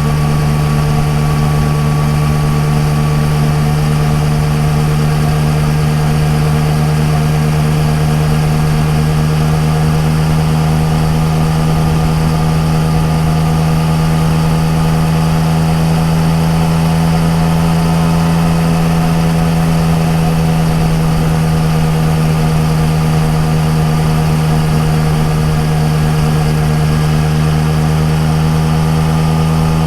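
Yamaha MT-09 Tracer's three-cylinder engine through an Akrapovič exhaust, running steadily at highway cruising speed, its pitch rising slightly for a few seconds past the middle before settling back.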